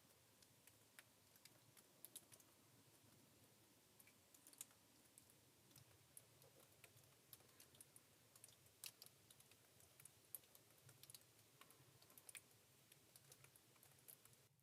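Near silence with faint, irregular clicks and ticks scattered throughout.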